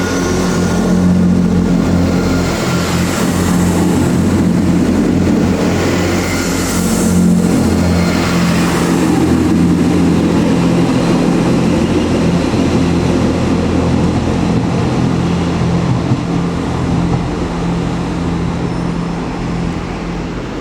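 Train running, with a steady engine drone and the rumble of the ride.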